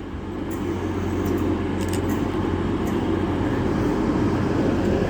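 A train running at the station: a steady low drone with rail noise, growing louder over the first couple of seconds and then holding steady.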